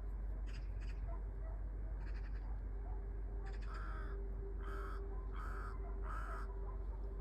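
Crow cawing: a few faint short calls, then four louder harsh caws in quick succession about halfway through, over a steady low hum.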